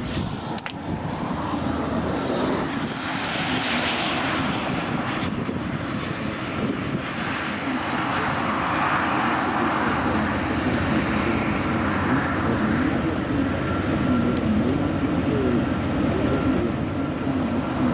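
A vehicle on the move: steady engine and road noise with a hum that wavers in pitch.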